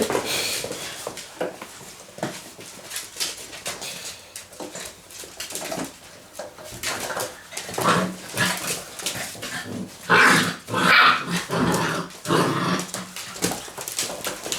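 Six-week-old Labrador retriever puppies play-fighting, growling and yapping at each other, with short scuffling knocks throughout. The vocal bursts pick up about halfway through and are loudest around ten seconds in.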